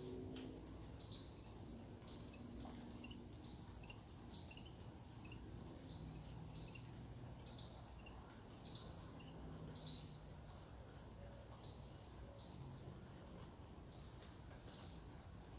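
A bird chirping: a faint, steady series of short high chirps, nearly two a second, some pitched a little lower than others, over low background noise.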